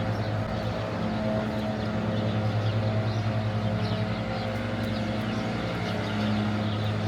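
A motor running steadily with a low hum, its pitch shifting slightly about six seconds in, with faint short high chirps above it.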